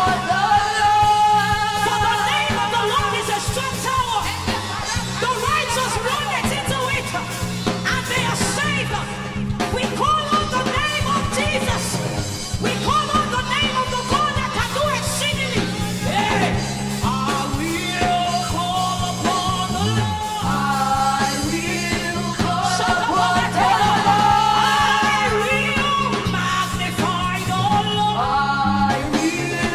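A woman singing gospel worship over a live band accompaniment with a steady bass line.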